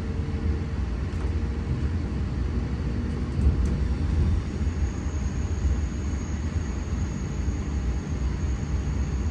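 Electric passenger train running with a steady low rumble. A faint high steady tone joins in about halfway through.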